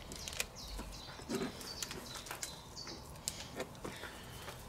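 Quiet outdoor background with faint bird chirps and scattered small clicks and taps.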